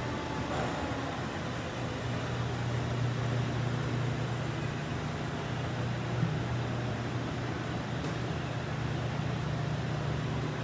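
A boiler being fired under test: a steady rushing noise with a low hum under it, and a small knock about six seconds in.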